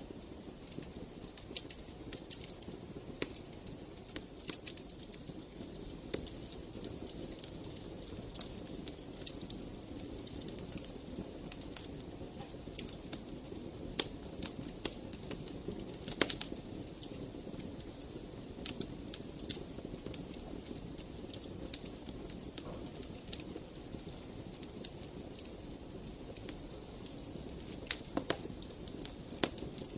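Wood fire in a fireplace crackling: irregular sharp pops over a steady low rumble of the flames, with a cluster of louder pops about halfway through and again near the end.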